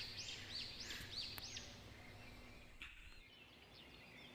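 A bird singing a run of high, arching whistled notes, one about every half second, for the first second and a half, then only faint chirps, over a quiet hush of wind.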